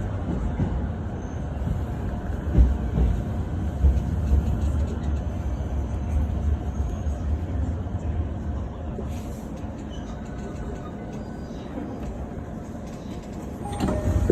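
Commuter electric train running, heard from inside the carriage: a steady low rumble of wheels on track that eases somewhat in the second half. Near the end there is a brief louder, sharper burst.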